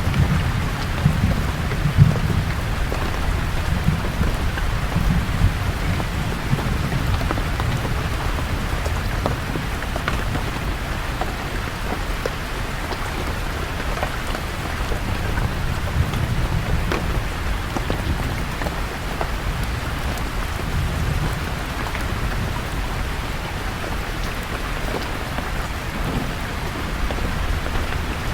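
Steady rain falling on leaves, with scattered heavier drops ticking through the hiss. A low rumble of thunder runs under it in the first few seconds and fades out.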